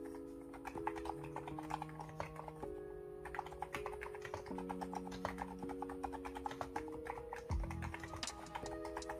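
Typing on an ABKO electrostatic capacitive (non-contact) keyboard: quick, uneven keystroke clacks, sparse at first and much denser from about three seconds in. Background music with sustained chords plays underneath.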